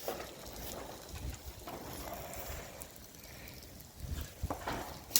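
Wind rumbling on the microphone in gusts, with a few faint scattered knocks.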